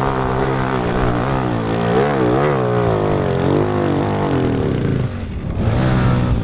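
Off-road motorcycle engine running close by, revved up and down a few times about two seconds in, then easing off briefly near the end before picking up again.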